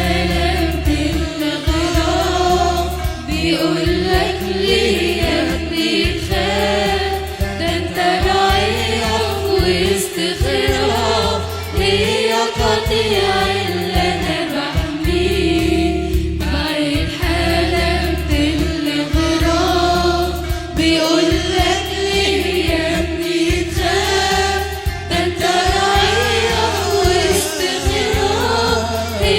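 Choir singing an Arabic Christian hymn.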